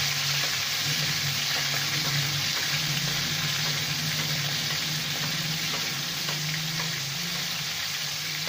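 Marinated chicken breast sizzling steadily as it shallow-fries in hot oil in a wok, with a few faint taps of a metal spatula as the piece is turned to fry the other side.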